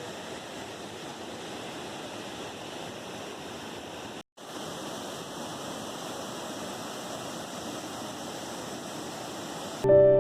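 Steady rushing of a large waterfall crashing down a tall rock drop. The sound cuts out abruptly for a moment about four seconds in, and soft piano-like background music begins just before the end.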